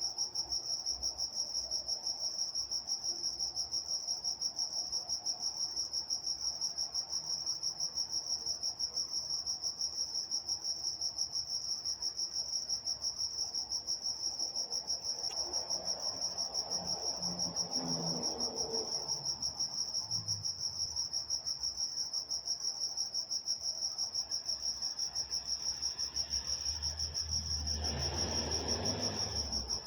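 A night chorus of crickets: steady, evenly pulsed high chirping. A faint low rumble swells and fades twice beneath it, around the middle and near the end.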